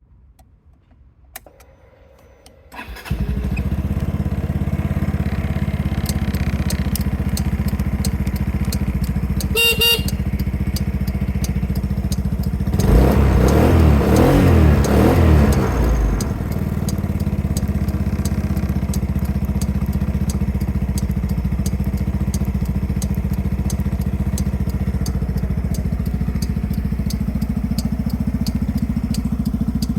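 Yamaha Majesty 125 FI scooter's single-cylinder four-stroke engine starting about three seconds in and settling to a steady idle. There is a short beep of the horn about ten seconds in, and the throttle is opened for about three seconds before the engine drops back to idle.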